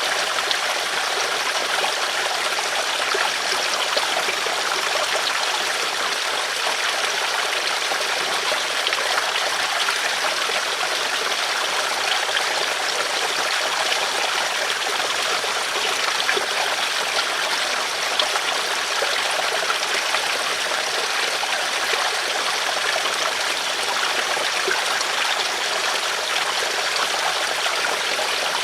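River water flowing over stones, a steady rushing and trickling with no change in level.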